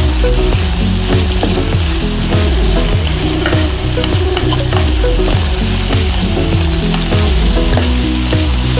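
Fried cauliflower florets sizzling in hot yogurt-chili sauce in a nonstick frying pan, with a spatula stirring and scraping them around the pan.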